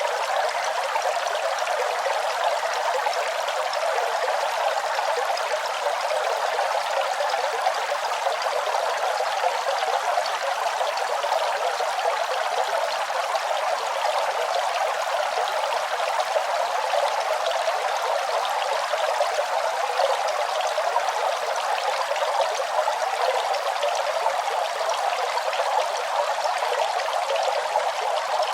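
Running water flowing steadily: an even, unbroken rush with no low rumble.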